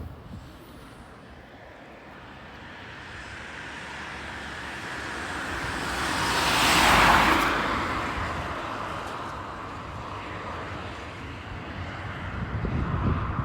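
Jet airliner passing by: its engine noise swells for several seconds to a peak about seven seconds in, then fades away.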